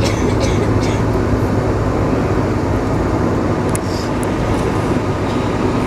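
Cabin noise inside a British Airways Boeing 747-400 on the ground before takeoff: a steady low hum and rumble from its Rolls-Royce RB211 engines at low thrust and the air system, with a few faint ticks about four seconds in.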